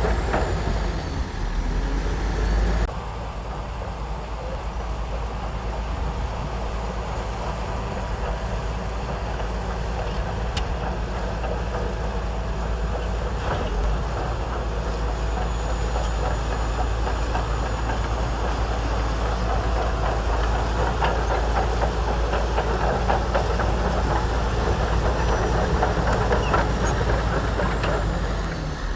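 Shantui DH17C2 bulldozer's diesel engine running steadily with scattered metallic clanks from its tracks and blade. The sound steps down slightly about three seconds in.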